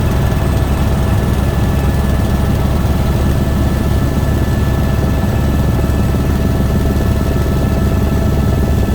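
Helicopter running steadily in flight: a loud, fast low rotor pulse under a steady high engine whine.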